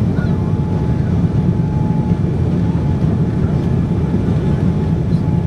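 Steady low rumble of a Boeing 787-9 Dreamliner heard inside the passenger cabin: engine and airflow noise with a faint constant whine.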